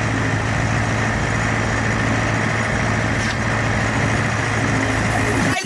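Ursus C-360 tractor's four-cylinder diesel engine running steadily at an even speed.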